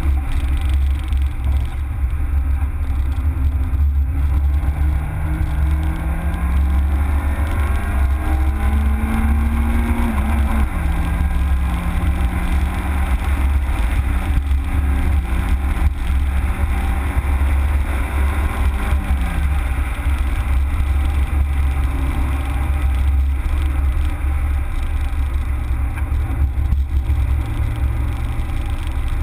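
Citroën Saxo VTS's 16-valve four-cylinder engine heard from inside the cabin as the car is driven: the engine note climbs over the first several seconds, drops at about ten seconds, holds fairly steady, then falls away at about nineteen seconds. A heavy steady low rumble sits under it.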